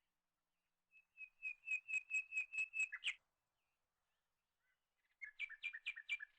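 A songbird singing two short phrases of quickly repeated high notes. The first runs about two seconds, roughly four notes a second, and ends in a quick downward slur. The second, shorter phrase comes near the end.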